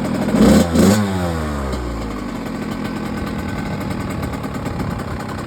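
1998 Kawasaki KX80's two-stroke engine idling, blipped twice about half a second in, then its revs falling back to a steady idle.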